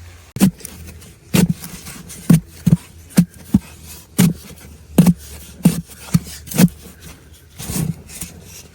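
A series of about a dozen sharp chopping strikes, a blade hitting something solid, each with a dull thud, coming at uneven intervals of roughly half a second to a second.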